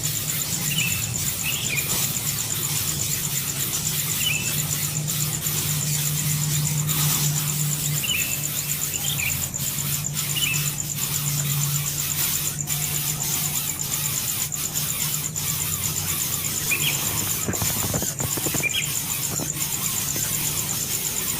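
Short high bird chirps, a few at a time, scattered over a steady high-pitched pulsing whine and a low hum.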